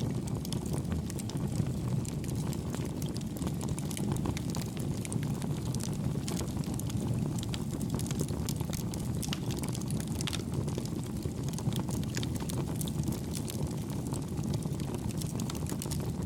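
Campfire burning: a steady low rush from the flames with frequent small, light crackles at an even volume.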